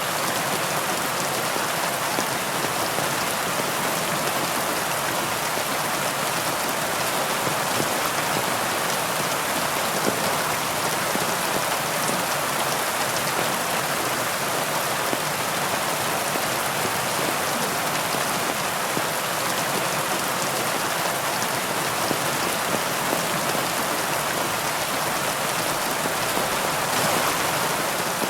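Steady heavy rain, a dense even patter of drops falling on surfaces.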